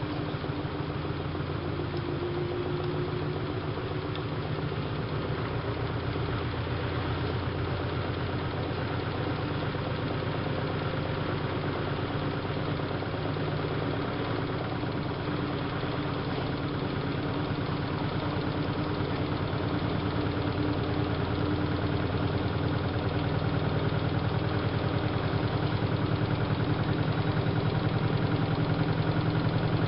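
Siemens Siwamat IQ front-loading washing machine running, a steady motor hum that grows gradually louder over the last third.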